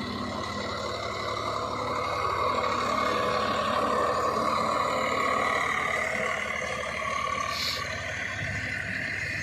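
Tractor diesel engine running steadily, a little louder in the middle, with a brief faint high squeak near the end.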